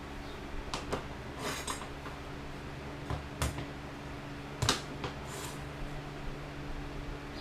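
A few light clicks and knocks and two brief scraping sounds from handling tools and material on a workbench, over a steady electrical hum.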